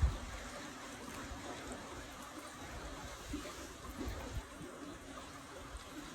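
A stream trickling, a steady wash of running water, with irregular low thumps underneath.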